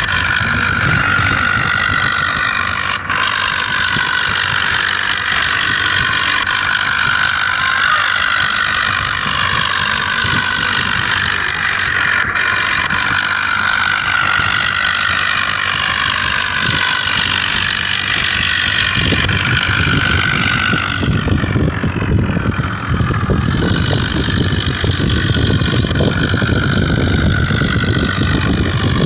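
A motor vehicle running steadily, with a deeper rumble building up about two-thirds of the way through.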